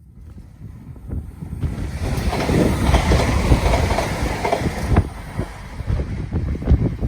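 A train running past on the line, its wheels clattering over the rail joints. The rush builds over the first two seconds, is loudest in the middle, then eases into a run of separate clacks.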